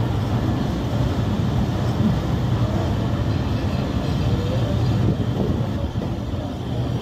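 Passenger train carriage running along the track, heard from an open window: a steady low rumble of wheels and running gear.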